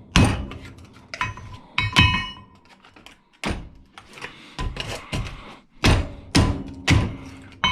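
Hammer blows on the metal parts of an old battery charger being broken apart: a run of irregular heavy strikes, several with a short metallic ring.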